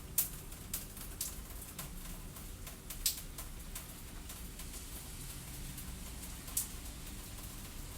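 Fireplace crackling: irregular sharp pops and snaps over a steady low rumble, with the loudest pops near the start, about three seconds in, and about six and a half seconds in.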